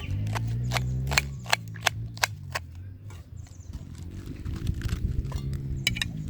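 A series of sharp, irregular clicks or knocks, several a second in the first half and a few more near the end, over a low droning sound.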